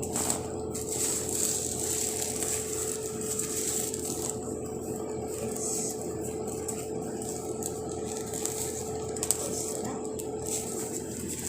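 A steady, even mechanical hum with a constant whine, unchanging throughout.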